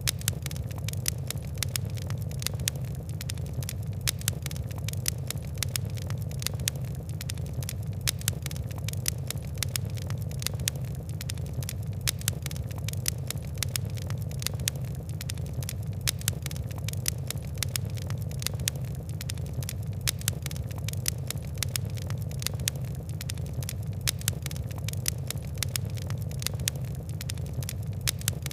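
Fire crackling: frequent sharp ticks and pops over a steady low rumble of burning.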